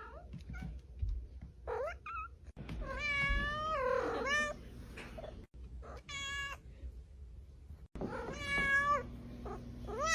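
Domestic cat meowing over and over while being petted, about six separate meows, some rising and falling in pitch.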